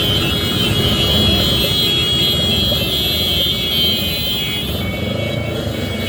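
Motorcycle and car engines of a procession moving through city traffic: a loud, steady rumble with some steady high tones above it.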